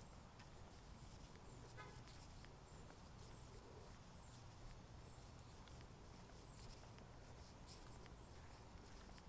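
Near silence: faint footsteps of someone walking, with scattered soft ticks and rustles.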